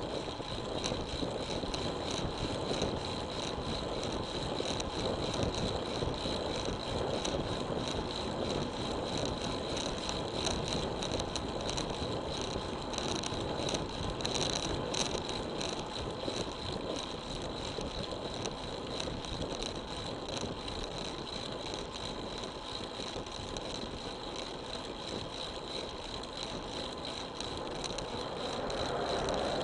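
Road bike in motion: steady wind and tyre-on-road noise with light rattling from the bike, and a swell of noise near the end.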